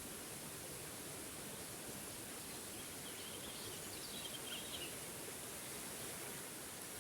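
Small waterfall's steady rush of water, with a songbird's short high chirps about halfway through.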